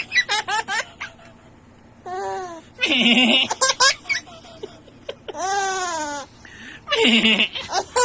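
A baby laughing in bright, breathy bursts in answer to a man's silly vocal noises, the exchange repeating about three times.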